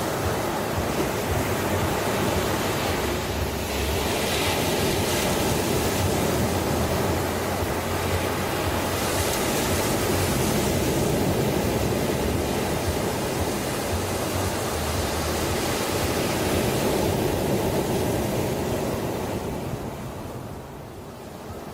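Ocean waves washing ashore: a continuous rush of surf that swells and eases, with the hiss brighter about four seconds in and again around nine to eleven seconds, and the wash easing off near the end.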